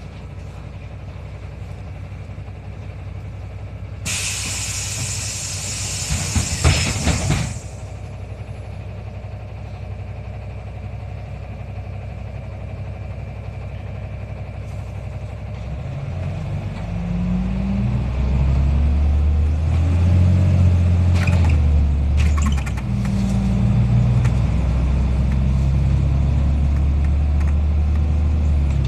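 NefAZ-5299 city bus's diesel engine idling at a stop, heard from inside the cabin. A few seconds in, a loud hiss of compressed air lasting about three seconds comes from the bus's pneumatic doors or air brakes. Past the halfway point the engine revs climb as the bus pulls away, dipping once and climbing again at a gear change.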